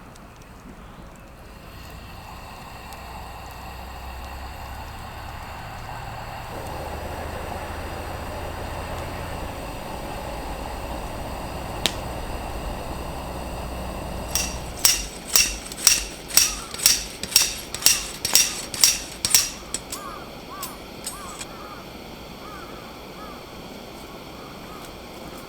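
A quick run of about a dozen sharp knocks, roughly three a second, then a few fainter ones. They follow a steady noise that slowly grows louder.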